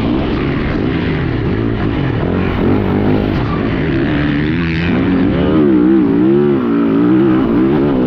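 Yamaha YZ450F single-cylinder four-stroke motocross engine being ridden hard, the revs climbing and dropping repeatedly as the throttle is worked on and off. The swings in pitch are quicker and wider in the second half.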